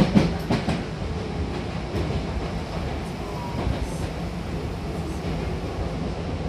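Hankyu commuter train running between stations, heard inside the passenger car: steady wheel-and-rail rumble, with a quick run of rail-joint clacks in the first second.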